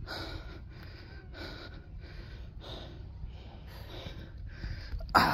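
A person panting hard from the exertion of a steep climb: quick, heavy breaths at about two a second, with one louder, sharper breath near the end.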